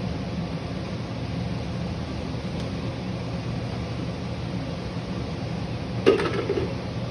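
Steady low mechanical hum of a workshop, with a single sharp metallic clink that rings briefly about six seconds in, as of a tool or metal part being set down or knocked while working on the motorcycle.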